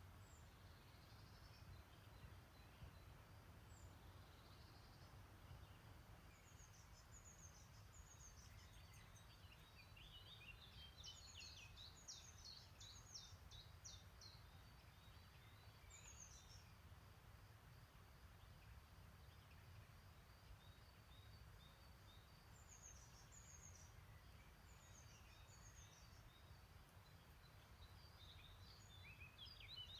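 Faint songbirds singing in the background, with a quick run of rapid notes about a third of the way in and more song near the end, over a steady low rumble.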